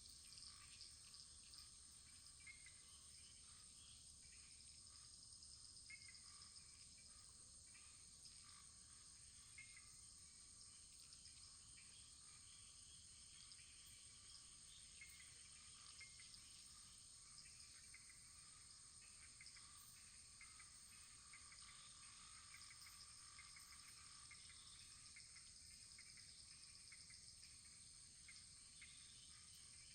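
Faint crackling of a wood fire: scattered small pops and snaps over a steady hiss.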